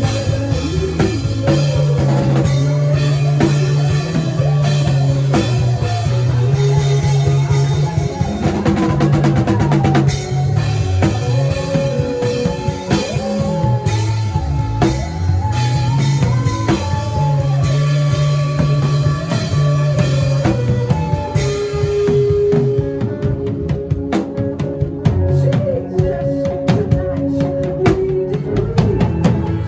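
Drum kit played along to a music track, with dense strokes over a steady bass line and held melodic tones.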